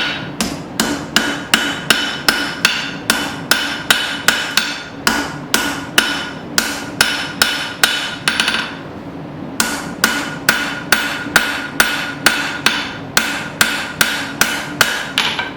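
Hammer blows on hot file steel over an anvil, drawing out the steel, about three strikes a second with a bright ring on each blow. There is a short pause a little past halfway, and a steady hum runs underneath.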